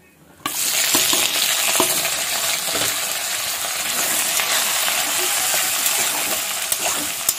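Sliced onion and tomato sizzling in hot oil in a kadai, starting suddenly about half a second in as they hit the oil, then holding steady. Scattered clicks and scrapes of a spatula stirring against the pan.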